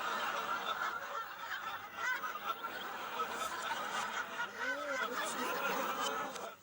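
Studio audience laughter played in reverse: a dense wash of many voices laughing together.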